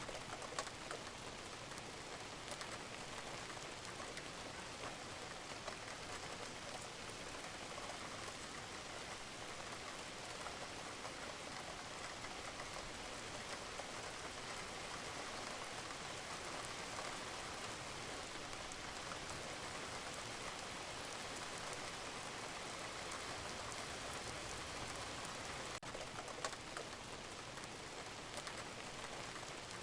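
Steady rain falling on a roof, with a few louder drips of water standing out now and then.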